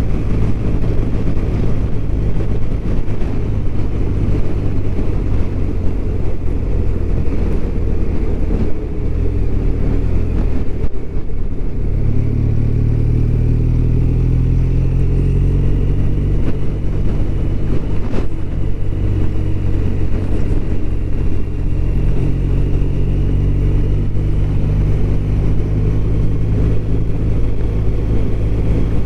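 BMW R1200RT's flat-twin boxer engine running under way at a steady cruise. The engine note drops briefly about eleven seconds in, as on a throttle lift or gear change, then picks up again and holds steady.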